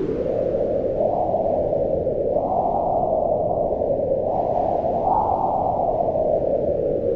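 Howling mountain wind: a steady rush with a hollow howl that rises and falls in pitch as it gusts, swelling about one, two and a half and five seconds in.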